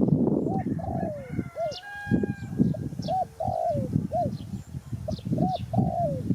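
Spotted dove cooing: a string of short, arched coo notes in quick succession, over constant low rumbling background noise.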